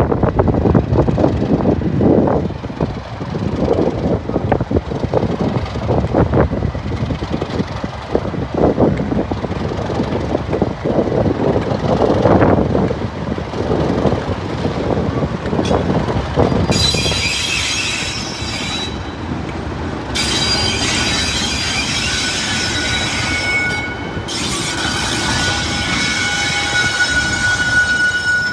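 A train moving through the station: a heavy rumble with rapid clatter of wheels over the track, which eases about 17 seconds in as several high-pitched metallic squeals of wheels on rail set in and carry on.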